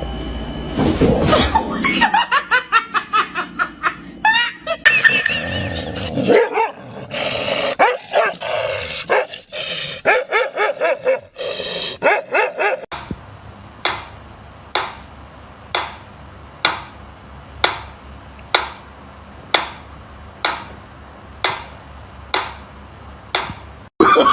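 A dog barking and yipping in quick runs of short calls over roughly the first half; then a sharp sound repeats evenly, about once a second.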